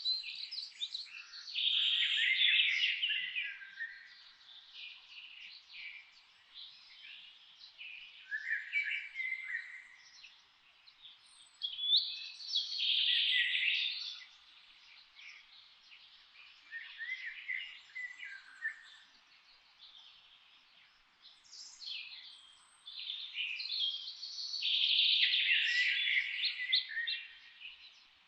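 Songbirds singing: dense phrases of quick notes, each lasting two to three seconds, come every few seconds, with fainter chirps in between. A longer phrase comes near the end.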